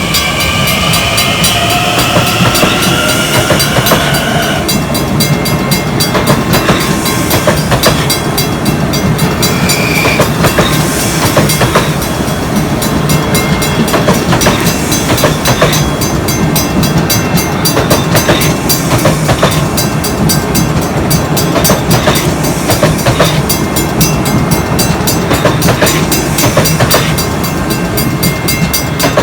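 A train passing close by, loud and steady, its wheels clicking over rail joints throughout. A rising whine is heard in the first few seconds.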